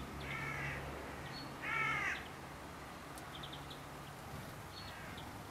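Two harsh, cawing bird calls, a faint one at the start and a louder one about two seconds in, with a few faint high chips in between.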